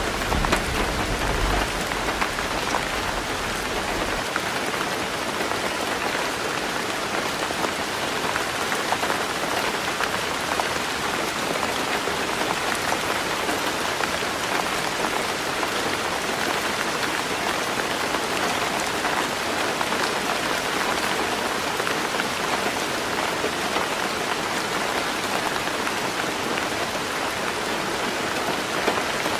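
Heavy rain falling steadily on a roof, a dense, even hiss of drops. A low rumble of thunder dies away about four seconds in.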